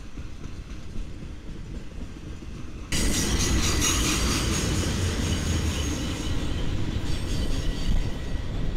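Freight train of flatcars loaded with track-maintenance machines rolling past, wheels rumbling and clattering on the rails. About three seconds in the sound jumps suddenly louder, with a high metallic wheel squeal over the rumble.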